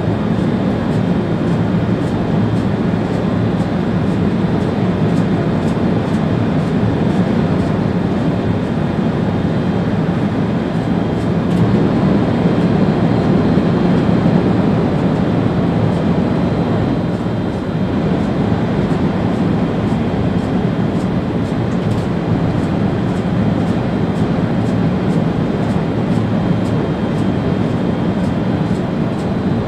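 Steady rumble and rush of an ÖBB Railjet train running at speed, heard from inside the driver's cab, with faint ticks throughout and a slight swell about twelve seconds in.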